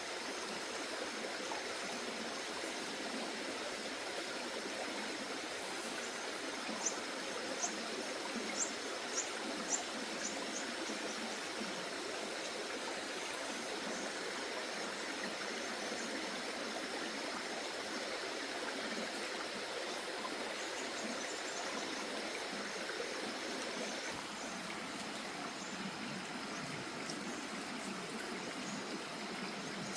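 Water flowing steadily in a stream. A run of short high chirps comes about a third of the way in, and a few fainter ones later.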